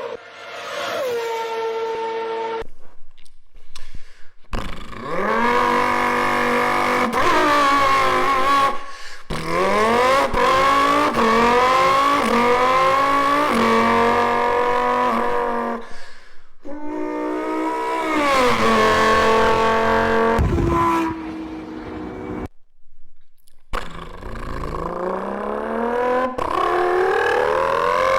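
High-revving car engines accelerating hard, the pitch climbing and dropping back again and again as the gears change, in several short clips separated by brief silences.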